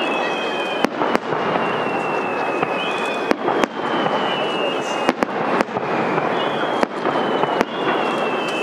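Aerial fireworks shells bursting overhead: sharp bangs every second or so, some in quick pairs.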